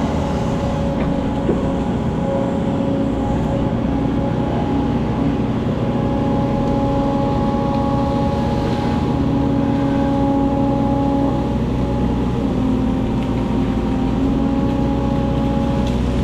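Hydraulic excavator's diesel engine running steadily, with a steady whine over the low rumble and a few faint clicks.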